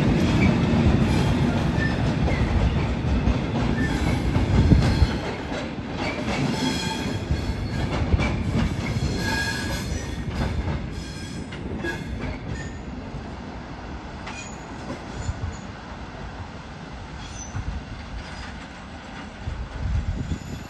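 Freight train of covered hopper wagons running past, its wheels rumbling loudly for the first five seconds, then fading as it draws away. Patches of high-pitched wheel squeal and light wheel clicks carry on over it.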